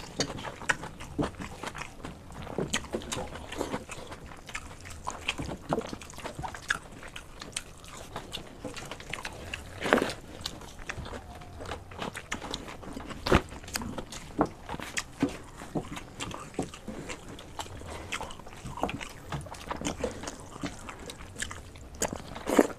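Close-up eating sounds of two people eating water rice and fried snacks by hand: wet chewing and lip smacks with irregular sharper clicks, the loudest about ten seconds in and again near the end.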